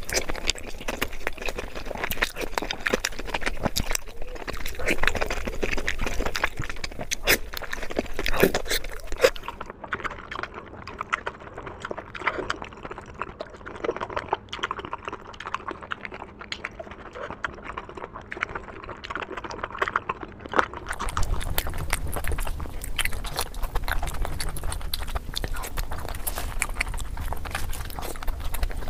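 Close-miked eating sounds of momo dumplings in sauce being chewed: a steady stream of wet chewing, lip smacks and mouth clicks. The recording's tone changes twice, about a third and two thirds of the way through.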